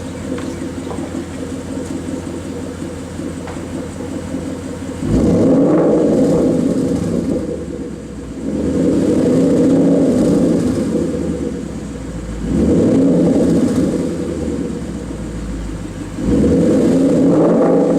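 2013 Ford Mustang GT's 5.0-litre V8 idling through a Roush aftermarket exhaust, then revved four times, each rev held for a couple of seconds before it drops back to idle.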